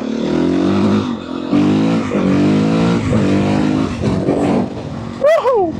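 Motorcycle engine on its stock exhaust accelerating hard under way, its pitch climbing several times with short drops between as it shifts up through the gears, over wind noise.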